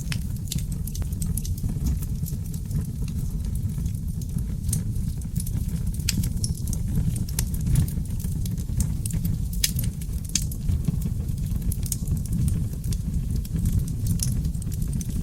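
Seasoned oak logs burning in a fireplace: a steady low roar of flames under a constant scatter of sharp crackles and pops, a few of them louder than the rest.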